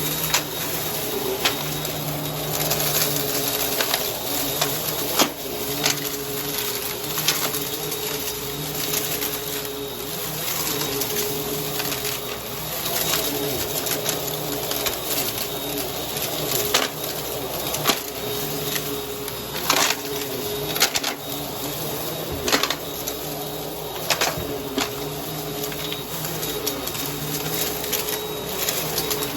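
Vacuum cleaner running steadily, with frequent irregular sharp crackles and clicks as dry, crunchy debris is sucked up.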